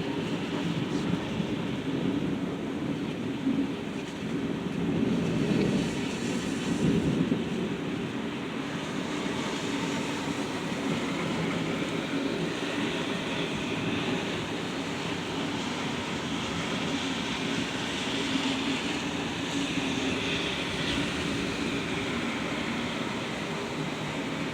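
Steady rain during a thunderstorm, with a low rumble of thunder that swells about five to seven seconds in.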